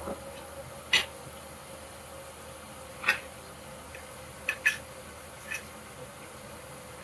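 A handful of short, light clicks and taps, spaced irregularly over several seconds, over a faint steady hum.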